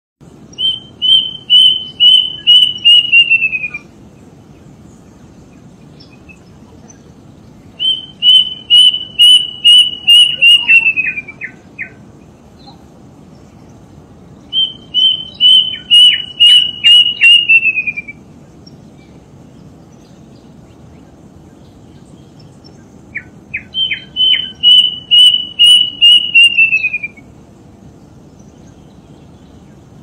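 A bird singing four separate phrases. Each phrase is a quick run of repeated whistled notes, about three a second for roughly three seconds, dropping in pitch at the end. Some phrases are followed or preceded by a few lower notes. A steady background hiss lies under the song.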